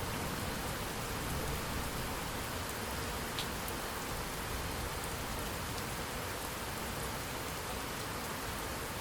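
Steady rain falling on a surface, an even hiss with a few individual drops ticking.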